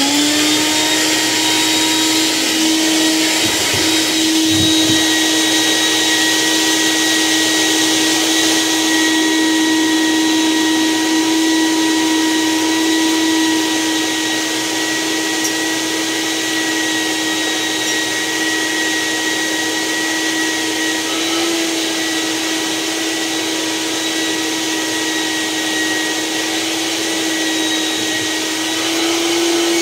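Shop vac running steadily while vacuuming ashes out of a wood stove: a loud rush of air with a steady motor whine that steps up slightly in pitch a couple of times.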